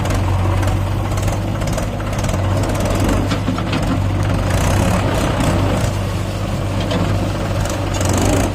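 Tractor diesel engine running steadily with a deep, constant low hum.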